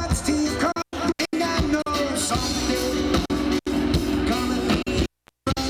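Live roots reggae band playing. The sound drops out for a split second several times, once for about a third of a second near the end.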